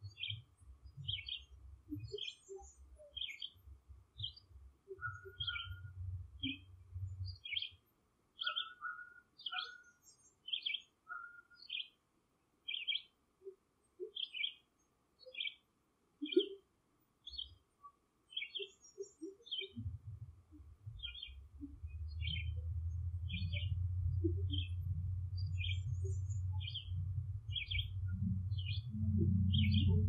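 A bird chirping over and over, short high chirps about every two-thirds of a second. Under it runs a low rumble that drops out after about eight seconds and comes back, steadier and louder, about twenty seconds in.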